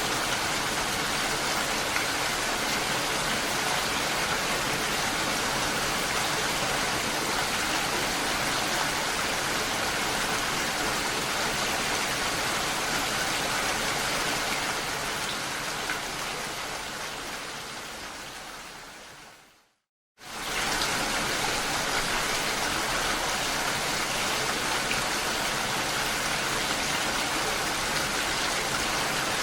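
Steady rain falling. About fifteen seconds in it fades away to a moment of silence, then starts again abruptly at full strength.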